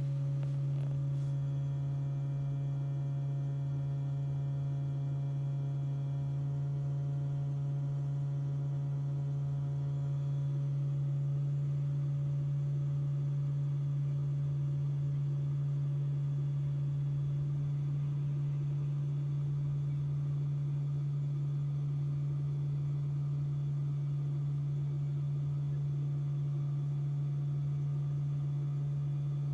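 Steady electrical buzzing hum from a Tesla's dash while supercharging, usually due to the HVAC compressor under the dash running to cool the battery; a normal sound. One constant low-pitched tone with fainter higher overtones, some of which fade out about ten seconds in.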